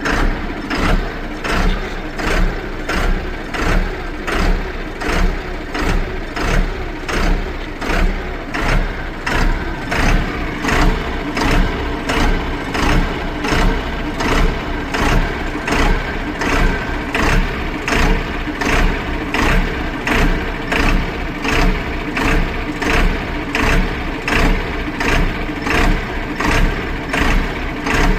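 Tata Tiago engine running, its sound swelling in a regular pulse about every three-quarters of a second. The car has a P0187 fault code with starting and acceleration problems.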